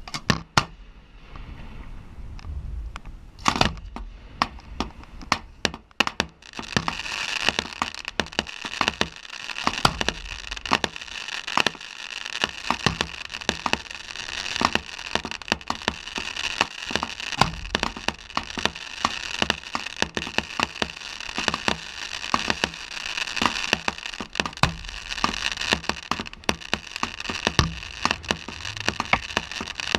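Fireworks going off: a few separate sharp bangs, then from about six seconds in a dense, unbroken run of crackling and popping reports.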